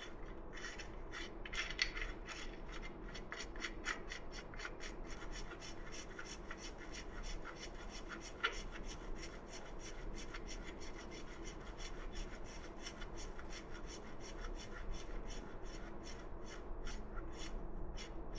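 Rhythmic rasping scrapes, like a hand tool worked back and forth, at about four strokes a second, with a few louder strokes.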